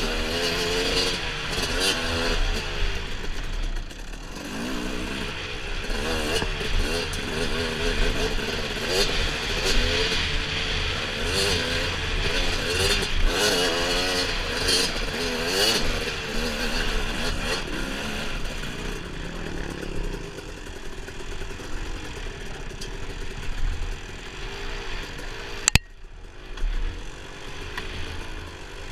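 Dirt bike engine being ridden, its revs rising and falling over and over, with clattering and scraping mixed in. A single sharp knock comes near the end, after which the engine sound is quieter.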